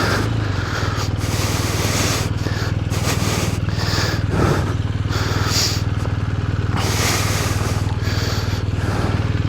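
Motorcycle engine running steadily while riding, with wind rush that swells and fades every second or two.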